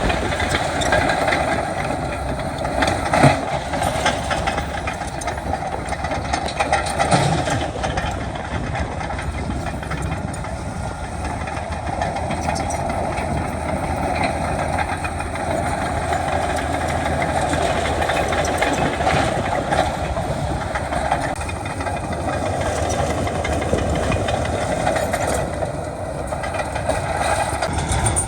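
Heavy earthmoving machinery engine running steadily under work, with a couple of sharp knocks about three and seven seconds in.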